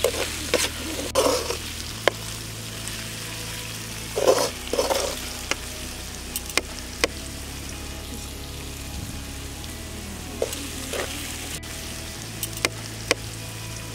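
Chopped okra stir-frying in oil in a metal pan: a steady sizzle, with the spatula scraping and clicking against the pan now and then.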